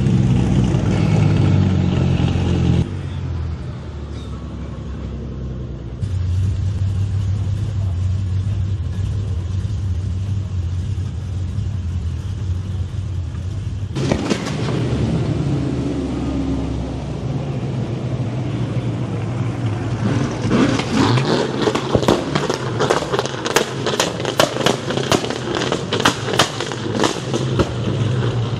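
Car engines running, a deep steady engine note whose level shifts abruptly a few times. In the last several seconds a rapid, irregular run of sharp cracks sounds over it.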